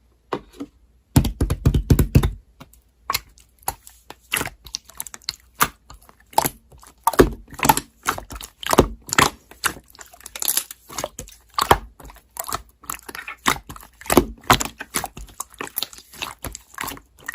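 Slime being handled, giving an irregular run of crackles, small pops and clicks, with a denser squishing stretch about a second in.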